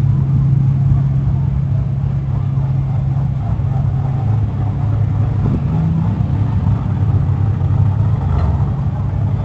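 An engine running steadily with a low, even drone. The pitch shifts slightly around the middle.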